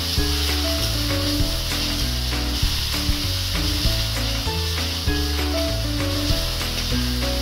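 Chopped green chilli, grated ginger and garlic sizzling in hot oil in an iron kadhai while a steel spatula stirs and scrapes them, with light clicks of the spatula against the pan. Background music plays under it.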